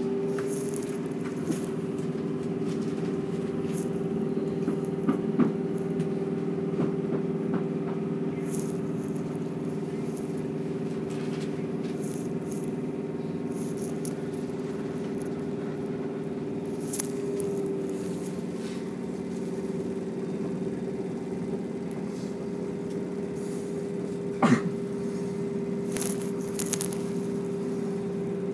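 Electric commuter train running at speed, heard from inside the carriage: a steady drone with a held humming tone, broken by occasional sharp clicks and rattles, the loudest about three-quarters of the way through and a few more near the end.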